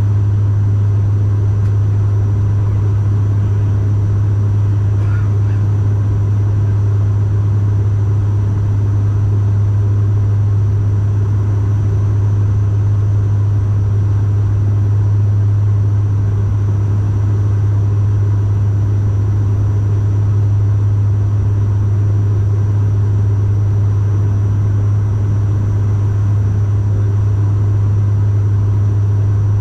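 Cabin noise of a Bombardier Dash 8 Q400 turboprop in flight: a loud, steady low drone from the propellers, with a rushing noise beneath it, unchanging throughout.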